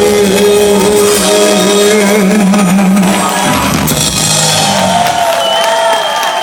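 Live vocal-instrumental band with singing, playing the end of a song. The low held final notes stop about five seconds in, leaving a few higher held tones.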